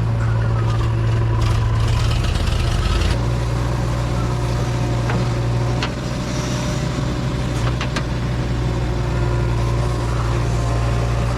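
Diesel engine of a JCB 3DX backhoe loader running steadily under work, its note shifting to a different speed about three seconds in, with a few sharp metallic knocks along the way.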